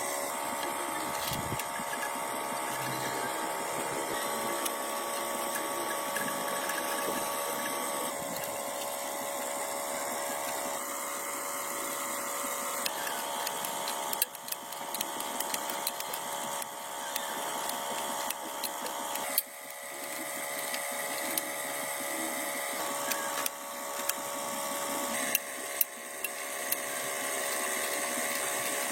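Small electric power tool running with a steady high whine. In the second half it repeatedly drops in speed and winds back up, with sharp knocks in between, as if it is being switched off and on or loaded against the work.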